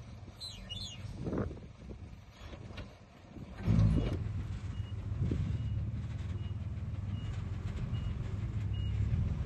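Diesel engine of a heavy earthmoving machine running, swelling sharply about four seconds in, then a reversing alarm beeping at an even pace, a little more than once a second.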